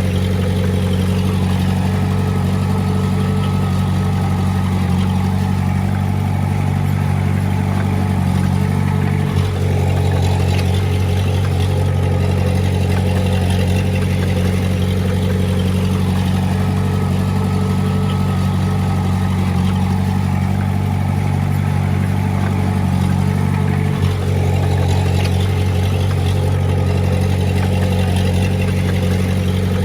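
Komatsu D20A bulldozer's diesel engine running steadily, with a brief drop in sound twice.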